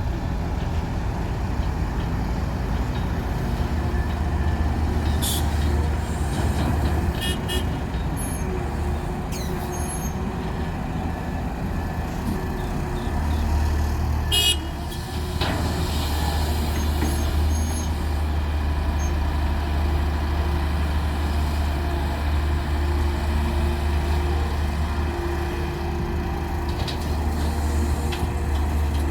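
Heavy diesel earthmoving machinery running steadily, a low, constant engine sound, with a few brief sharp sounds over the top.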